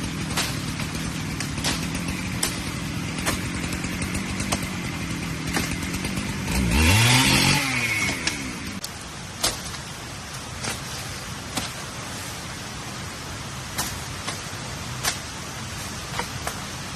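A small engine running steadily. About seven seconds in it revs up sharply with a rising whine, then falls away and stops. Scattered sharp clicks sound throughout.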